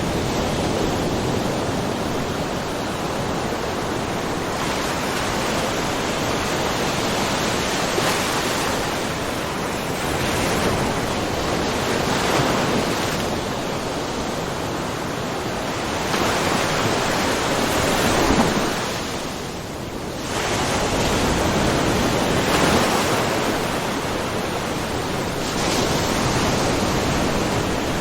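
Small ocean waves lightly splashing on a rocky shore: a continuous wash that swells every few seconds, with a brief lull about two-thirds of the way through.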